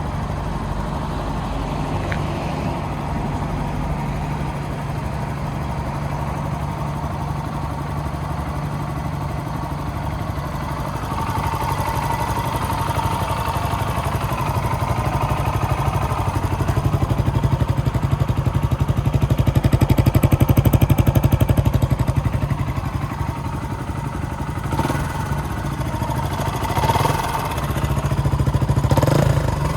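Kawasaki KLX125's single-cylinder four-stroke engine running at idle. In the middle it revs up gradually and settles back, and near the end the throttle is blipped twice.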